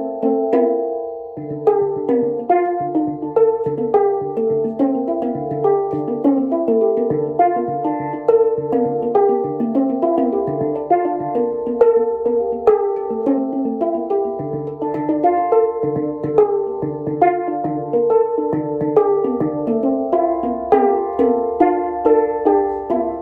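Handpan being played by hand: a continuous flowing melody of struck, ringing steel notes, several a second, each note sustaining and overlapping the next, with occasional lower bass notes.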